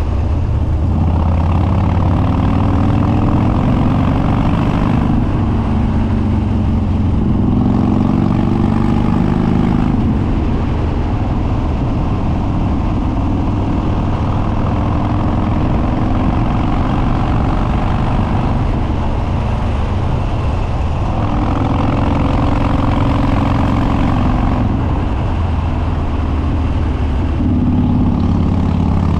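Harley-Davidson Twin Cam V-twin with Stage 2 cams, open air filter and unbaffled upswept dual exhaust, under way and pulling hard several times, the pitch climbing with each pull and dropping back between as the throttle eases.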